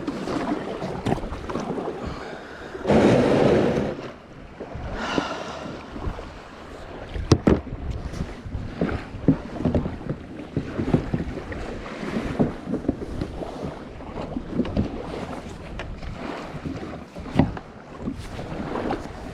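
Wind buffeting the microphone in uneven gusts, the strongest about three seconds in, with scattered knocks and clicks from handling.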